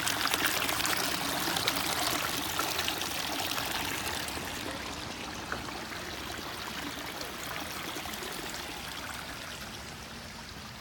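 Water splashing and trickling over the rocks of a pondless waterfall stream, a steady even rush that grows a little softer after a few seconds.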